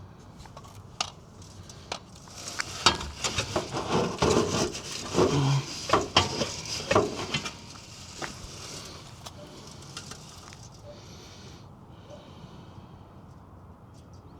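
Metal clanking, knocking and scraping as the old exhaust downpipe is wrestled out from under the car, catching against the surrounding parts. It is a busy flurry of knocks from about two seconds in, dying away after about eight seconds.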